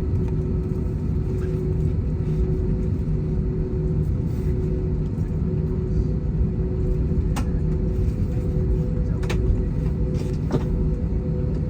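Steady rumble and hum of a jet airliner's engines and airframe heard inside the passenger cabin, with a few brief clicks in the latter half.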